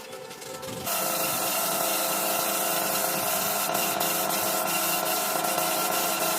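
A steady hissing, rubbing work noise from a tool on the car body, starting abruptly about a second in and holding evenly, with faint occasional clicks.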